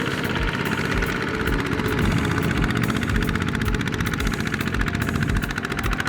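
Mini tractor's engine running steadily with a fast, even chugging of exhaust pulses while it works in mud.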